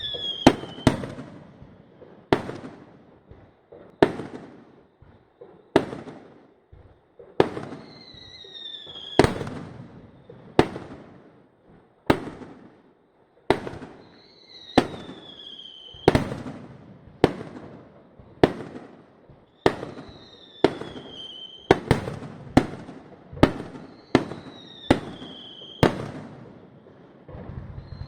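Fireworks display: aerial shells bursting in a steady, irregular series of sharp bangs, one every second or two, each trailing off. Every several seconds a high whistling tone sounds, dropping slightly in pitch.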